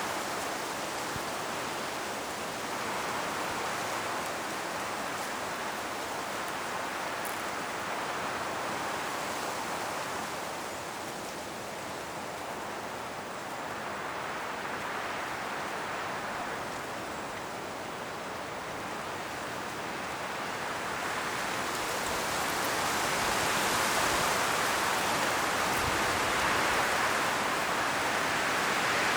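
Strong wind blowing through autumn forest trees, the leaves rustling in a steady rush that swells and eases in slow gusts and grows louder near the end.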